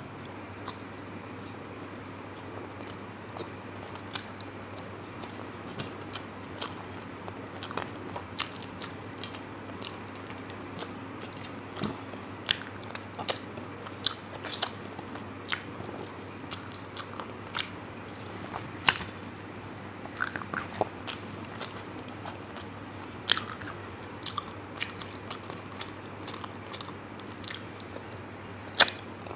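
Close-miked chewing and mouth sounds of a person eating a rice-and-curry meal: irregular wet clicks, smacks and crunches over a faint steady hum.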